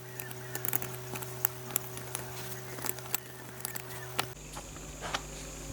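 Irregular light clicks and taps, like small hard parts being handled on a workbench, over a steady electrical hum; the background hum changes abruptly about four seconds in.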